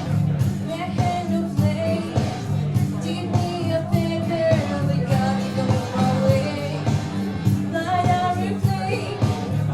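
Live singing of a pop-country song over instrumental accompaniment with a steady beat, the voices carrying a melody over sustained low chords.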